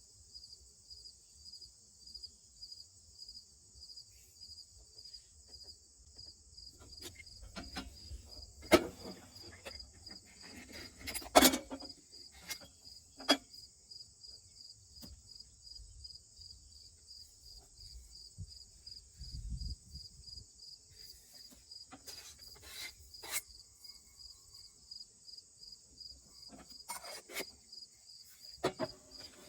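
Crickets chirping in a steady, high, fast-pulsing trill, with a few sharp knocks and clatters scattered through it, the loudest about eleven seconds in.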